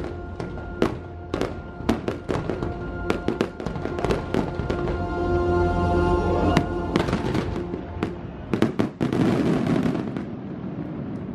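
Aerial fireworks bursting in rapid, irregular bangs over the show's music soundtrack. The music's held chords end about seven seconds in, and the bangs keep going, thickest near the end.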